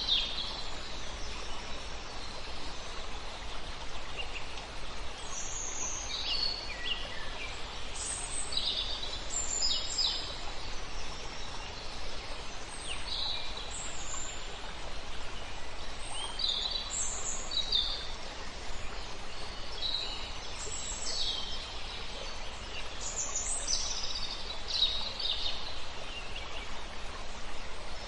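Several songbirds chirping and trilling, short high calls every second or two, over a steady rushing hiss of river water.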